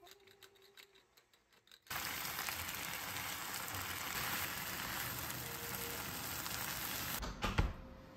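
Food sizzling in a hot frying pan, starting abruptly about two seconds in as an even hiss. A single knock comes near the end, just before the sizzle cuts off.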